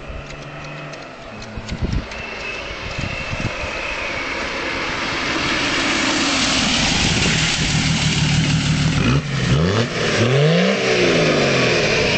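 Tuned Volvo 760 turbo diesel, its injection pump turned up to run 1 bar of boost: engine and turbo noise build steadily louder, then the engine is revved up and down several times in the last few seconds.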